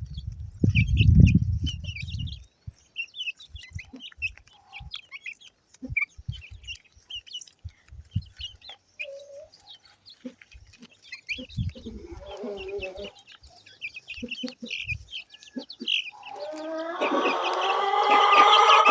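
Chickens feeding: chicks peep in short high chirps throughout, and adult chickens cluck. There are low dull thumps in the first couple of seconds, and a long, loud call from an adult chicken, likely the rooster, builds near the end.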